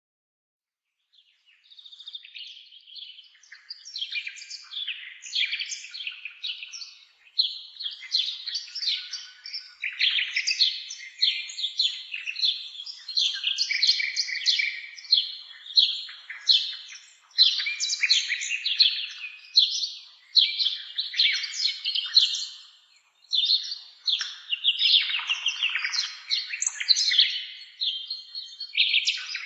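Songbird song: a fast, varied, nearly continuous stream of chirps, trills and whistled notes, starting about a second in after silence.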